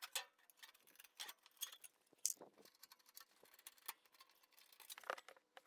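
Faint, irregular light clicks and taps of hand tools working on the generator's sheet-metal casing.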